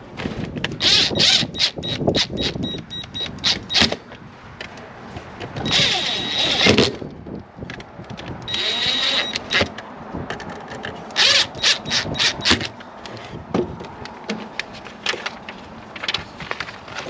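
Clattering, knocking and rustling of deer feeder parts being handled during assembly: a run of sharp clicks and knocks with a few noisier scraping bursts.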